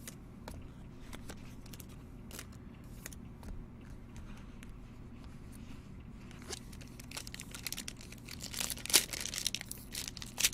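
Trading cards being handled, with scattered light clicks as they are flipped, then from about six and a half seconds in a louder crinkling and tearing of a card pack wrapper.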